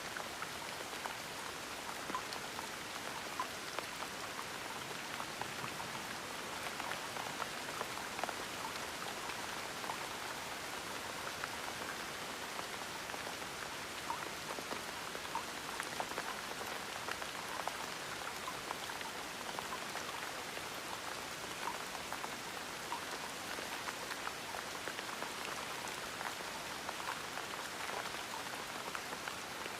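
Gentle rain falling steadily, with many small drop ticks scattered through an even hiss.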